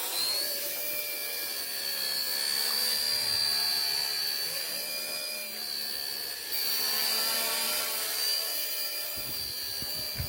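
Small electric motor running at high speed with a steady high whine over a hiss; its pitch finishes rising and levels off just after the start.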